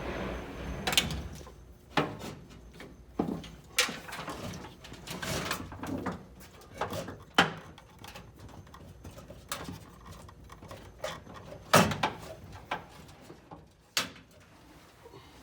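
Sheet-metal dashboard tin of a Porsche 914/6 being handled and set into the dash recesses: a dozen or so irregular knocks and clunks with rustling of wiring between them.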